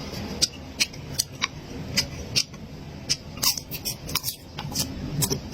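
Close-miked eating sounds: irregular sharp clicks and crunches of food being chewed, two to four a second.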